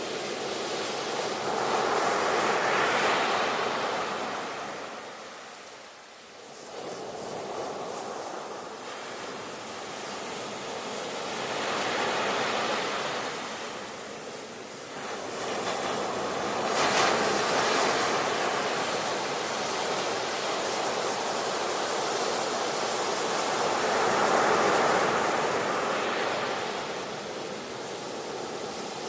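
Ocean surf: waves break and wash in, four surges each swelling and falling away over a steady hiss of moving water.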